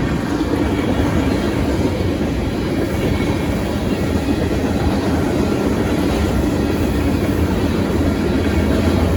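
Union Pacific manifest freight train rolling past, its cars' wheels running on the rails in a steady rumble.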